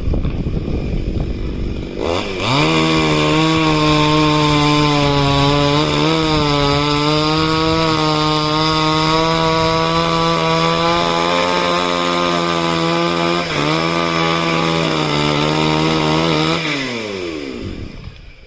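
Two-stroke chainsaw revved up about two seconds in and held at high speed, its pitch dipping briefly twice, then winding down near the end.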